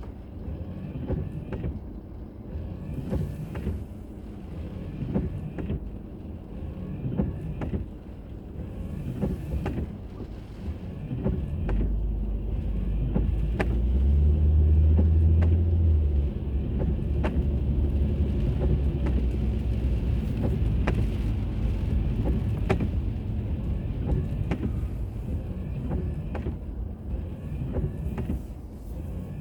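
A car driving, heard from inside through a dashcam: low engine and road rumble with scattered short clicks. About twelve seconds in, the low hum grows louder and stays up.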